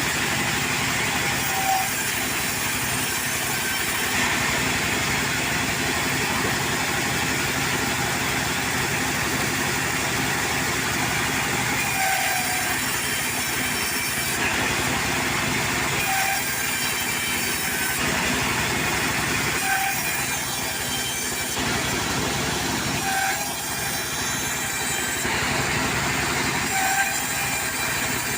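Portable sawmill running steadily through a cut, a dense continuous machine noise with a brief high squeak every three to four seconds.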